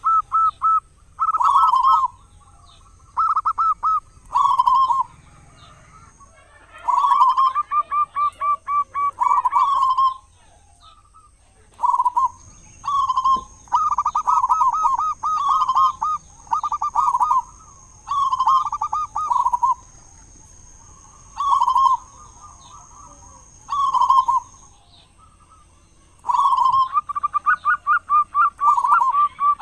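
Zebra dove (local perkutut) cooing song: phrase after phrase of rapid, staccato coos, each phrase lasting one to three seconds with short pauses between.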